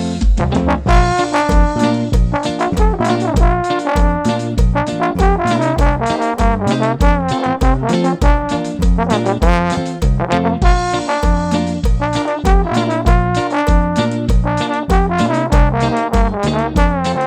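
Band music with a trombone playing the melody over a steady drum beat and bass line.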